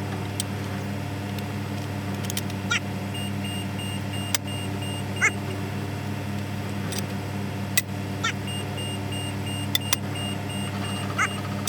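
A steady low machine hum, with sharp metallic clicks here and there and a broken high-pitched tone twice.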